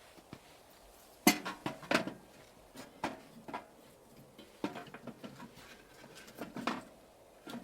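Irregular clatter of clinks and knocks from objects being handled, coming in short clusters every second or so.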